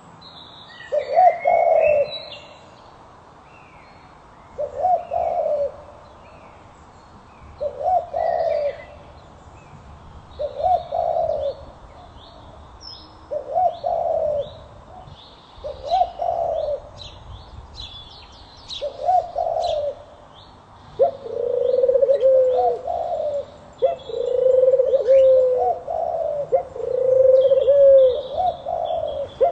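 A dove cooing: short coos repeated about every three seconds, then, about two-thirds of the way through, a longer run of coos with barely a break between them. Small birds chirp faintly behind it.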